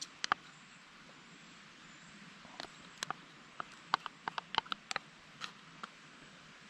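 Wood campfire crackling: irregular sharp pops and snaps over a faint steady hiss, coming more thickly in the second half.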